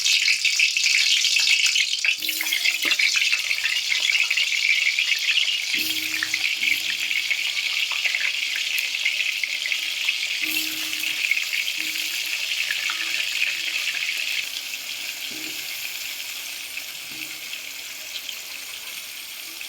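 Salted, turmeric-coated potato pieces frying in hot refined oil in a kadai: a loud, steady sizzle as they are added one by one, which drops down about three-quarters of the way through and keeps easing off.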